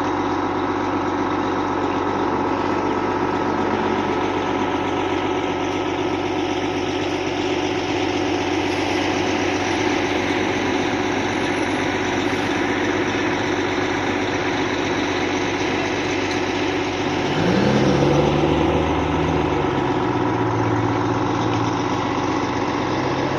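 An engine idling steadily. About three-quarters of the way through, its pitch briefly rises and falls, getting a little louder, then settles into a lower note.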